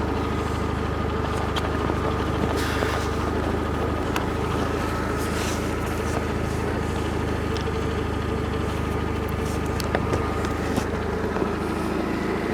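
Car engine idling steadily, a low even hum, with a few faint clicks over it.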